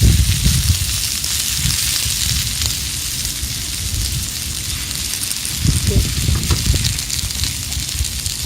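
Food sizzling in a pan over a charcoal fire pit, a steady hiss, with low rumbling bumps at the start and again about six seconds in.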